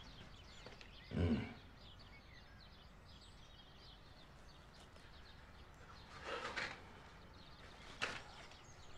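Quiet ambience with faint bird chirps, broken by a few brief sounds: a short low sound about a second in, a soft rustle past six seconds, and a sharp click near the end.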